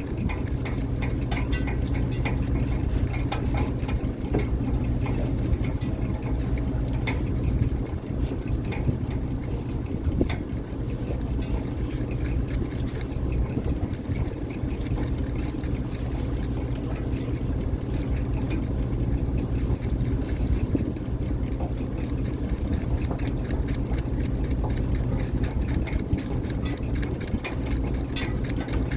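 Fishing boat's engine running steadily as a low drone, with small clicks and rattles over it.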